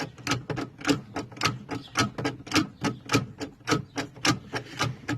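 Hydraulic bottle jack being pumped by its handle to lift the rear suspension, a sharp click with each stroke, about two a second.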